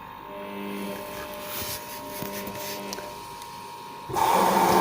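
LG front-loading washing machine running a wash cycle: the drum motor hums steadily for about three seconds as it turns the drum, then about four seconds in a loud rushing noise starts.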